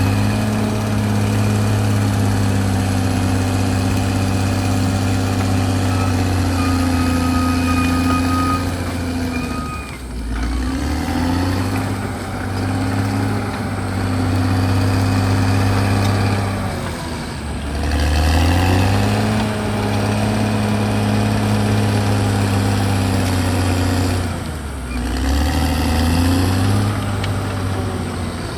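CAT D6R crawler bulldozer's diesel engine running hard. Its pitch drops and climbs back up three times as the machine works through its dozing passes.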